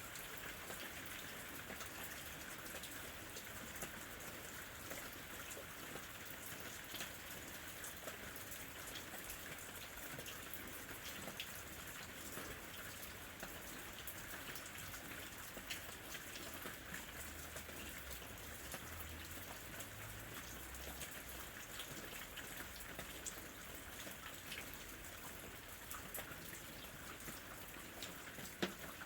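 Steady rain falling, with many small raindrops pattering and ticking on leaves and surfaces.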